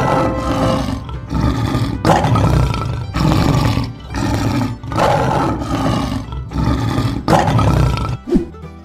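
Lion roaring again and again, one loud roar about every second, over background music.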